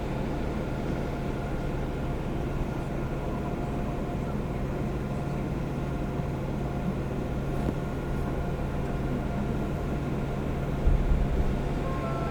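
Seoul subway train standing at a station with its doors open: a steady hum and whoosh of the car's ventilation and electrical equipment, with a brief low thud about eleven seconds in.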